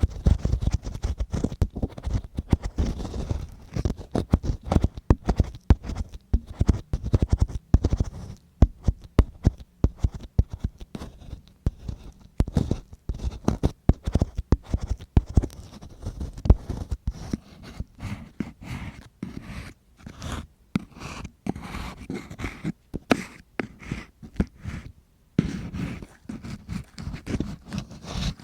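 Close-up ASMR ear-cleaning sounds: ear-cleaning tools scratching and scraping right against the microphone, in dense, irregular crackly strokes.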